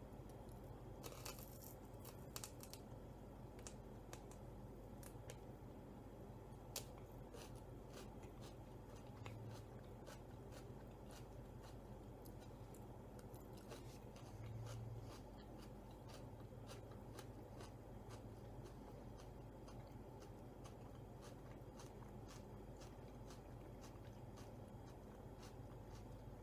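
Faint chewing of a crisp celery stick dipped in tzatziki: a run of small crunching clicks that grows denser several seconds in, over a low steady hum.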